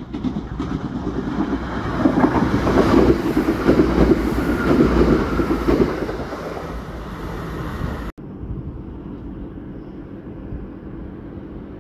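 A passenger train running through the station, its wheel and rail noise building to a loud peak over a few seconds as it passes and then easing off. About eight seconds in the sound cuts off sharply, leaving a quieter, steady rumble of the train going away down the line.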